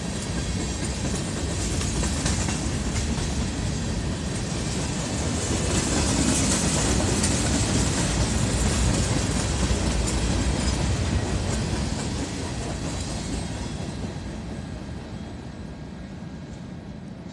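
Empty covered hopper cars of a freight train rolling past, their steel wheels running on the rails. The sound is loudest in the middle, then fades over the last few seconds as the end of the train passes and draws away.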